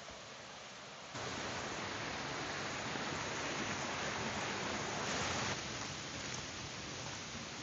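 Heavy rain pouring steadily, a dense even hiss mixed with rushing stream water. It jumps louder about a second in and eases slightly after about five seconds.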